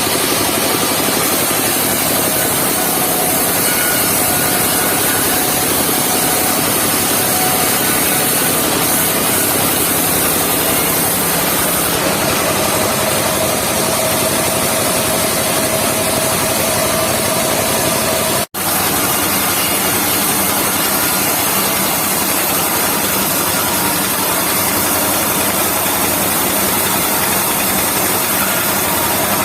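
Engine-driven circular saw of a mobile sawmill running steadily while sawing logs. The sound cuts out for an instant about two-thirds of the way through.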